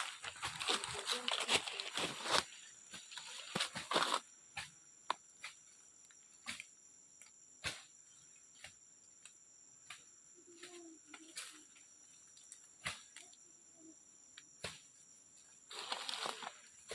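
Rustling for the first few seconds, then scattered sharp snaps and clicks, over a faint steady high-pitched hum.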